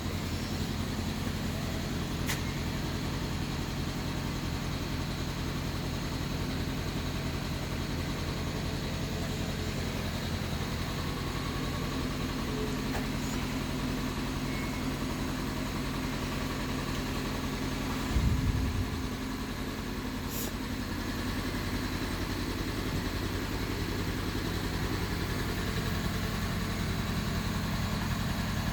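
Northfield #4 industrial table saw's 5 hp three-phase motor running steadily, a continuous low hum. About 18 seconds in there is a brief louder low rumble, and then the level settles back.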